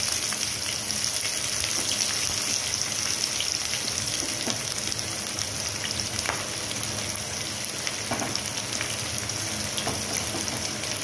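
Sliced onions sizzling in hot oil in a kadai: a steady frying hiss with a few faint pops.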